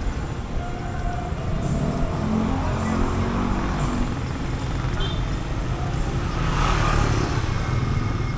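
Passing road traffic: a steady low rumble of vehicle engines.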